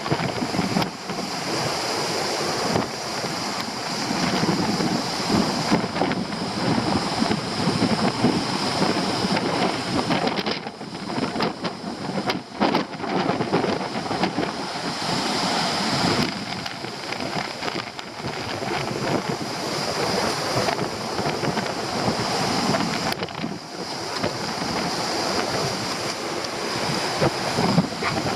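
Stormy sea surf breaking and washing against a rocky shore, mixed with strong wind buffeting the microphone in irregular gusts.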